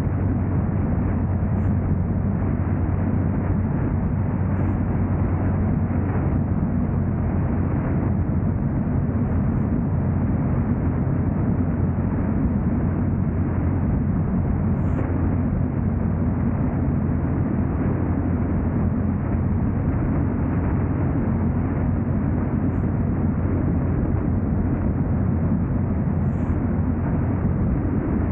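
Steady road and engine noise of a car driving: a constant low drone with an even rush above it, unchanging throughout.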